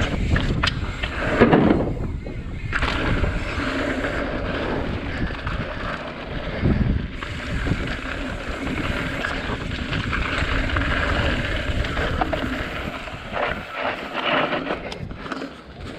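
Wind rushing over the microphone while a Santa Cruz Tallboy mountain bike rolls over rough trail, its tyres and frame clattering over bumps, with a loud jolt about a second and a half in and more rattling near the end.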